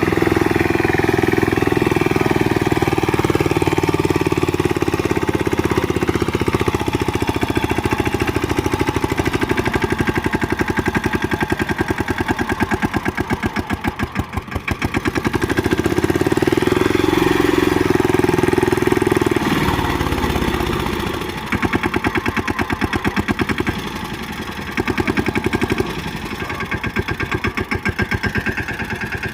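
Tractor's diesel engine running with a steady firing beat, its loudness dropping and picking up again a few times partway through as the throttle or load changes.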